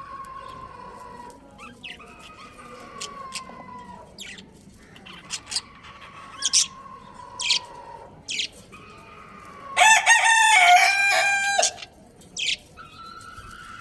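Budgies chirping in short, sharp calls. Near the end one loud, drawn-out call lasts about two seconds.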